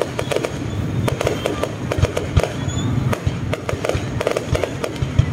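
Aerial fireworks display: a rapid, irregular series of shell bursts going off as bangs and crackles, several a second, over a low rumble.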